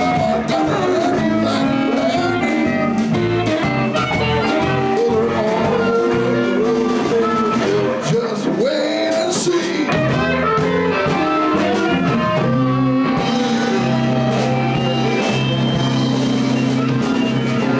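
Live blues band playing a shuffle-style jam, with guitars, bass and drums, and notes bent up and down about halfway through.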